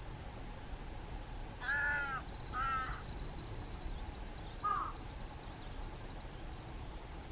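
Crow cawing: two harsh caws close together, then a shorter third caw a couple of seconds later.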